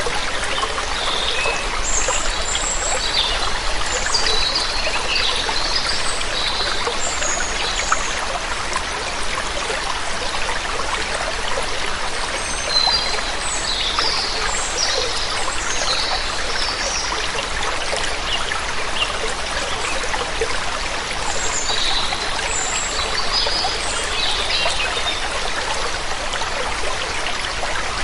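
Waterfall water splashing and rushing steadily, with small birds chirping in short high bursts: a cluster near the start, another around the middle and a few more in the last third.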